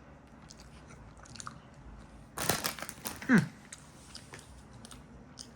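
A person chewing a bite of a soft packaged croissant snack, with faint mouth clicks. About two and a half seconds in comes a louder noisy stretch lasting about a second, ending in a short falling sound.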